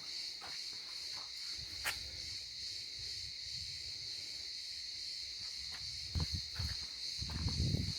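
A steady, high-pitched chorus of insects shrilling without a break, with occasional footstep clicks. There are a few low thuds near the end.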